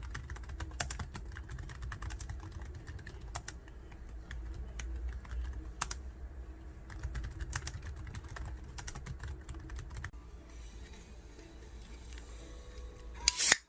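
Typing on a keyboard: rapid, irregular key clicks over a low hum that stops about ten seconds in, with a few louder clicks near the end.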